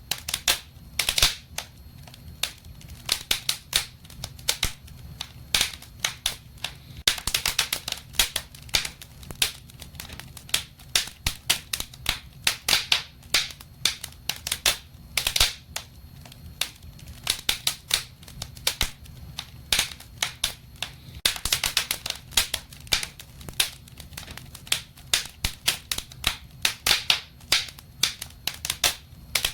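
Wood fire burning in a fireplace, crackling and popping irregularly, with clusters of sharp snaps over a low steady hiss.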